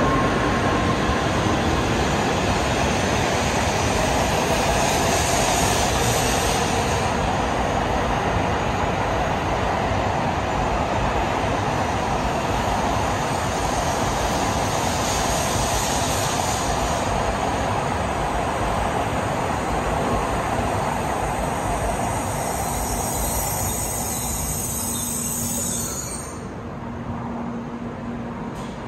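N700 series Shinkansen train running at the station, a loud steady rushing noise with a high squeal that rises and fades about three times. The noise falls away near the end, leaving a low steady hum.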